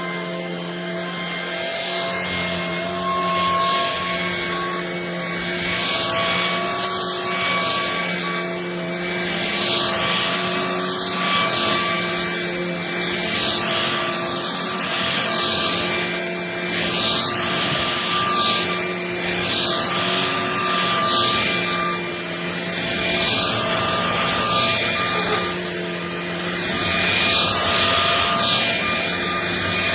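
Shark cordless stick vacuum running: a steady motor whine over a rush of air, the airflow swelling and easing every second or two.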